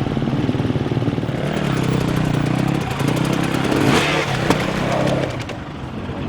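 Dirt bike engine running and revving, with a louder, noisier burst about four seconds in and a drop in level near the end.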